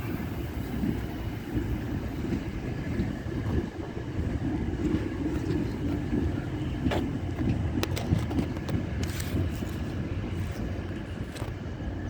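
Diesel-hauled freight train running through the station: a steady low rumble, with sharp metallic clicks and clanks from the wheels and wagons in the second half.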